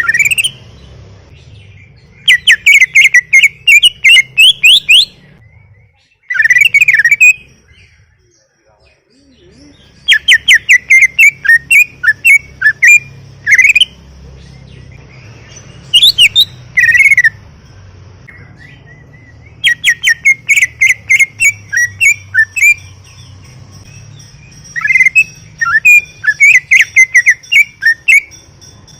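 Cucak ijo (green leafbird) singing loudly in phrases of rapid, chattering whistled notes, about six phrases separated by short pauses.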